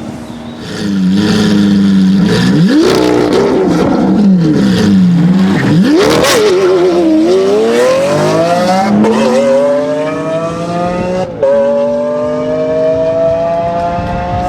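Lamborghini Aventador's V12 engine revving up and down several times, then pulling hard with the pitch climbing steadily. A quick gear change about three-quarters of the way through briefly cuts the sound before the climb resumes.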